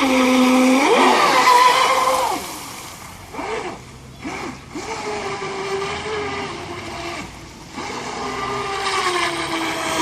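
RC boat's electric motor whining, its pitch rising and falling as the throttle is worked. It runs loud at first, eases off after about two seconds into a few short bursts, then builds again near the end.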